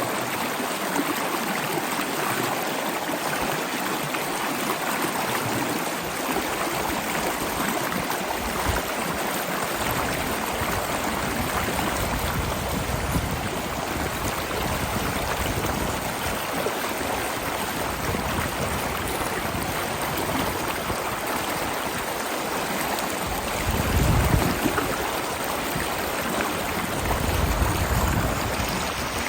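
Log fire in a fireplace crackling and hissing steadily, with a low rumble swelling briefly twice near the end.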